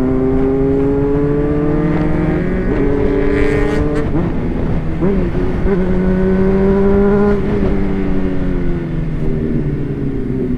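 Honda CBR600RR's inline-four engine pulling while riding, its pitch climbing slowly. About four seconds in there is a dip and a gear change. It holds and rises again, then falls away as the throttle eases off in the last few seconds.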